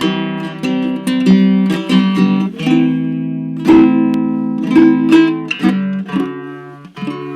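Handmade baritone ukulele with an ancient sitka spruce top and pernambuco back and sides, played unamplified: improvised plucked chords and single notes that ring and overlap. The notes die away about seven seconds in before the playing picks up again.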